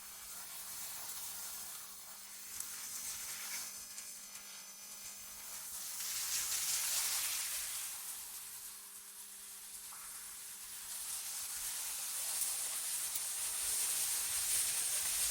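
Synthetic wind noise, a high airy hiss that swells and fades in slow gusts every several seconds. A faint steady low hum runs underneath.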